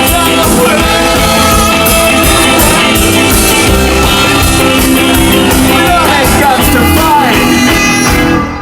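Ska band playing live. The music breaks off suddenly near the end.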